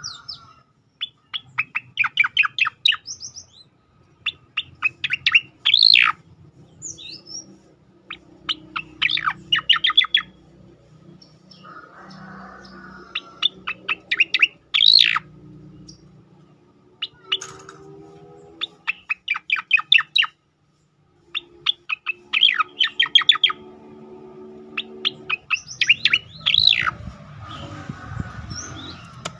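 A cicakoreng (striated grassbird) singing its rapid volley song: repeated phrases of quick, sharp chipping notes a second or two long, several ending in a louder upward-sweeping note, with short pauses between phrases.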